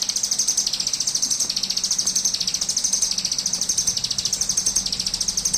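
Ciblek gunung singing its 'brem' buzz: a continuous high, insect-like buzzing trill that pulses about eight times a second and swells and fades in waves, the wavy 'brem gelombang' or bee-like 'brem tawon' style.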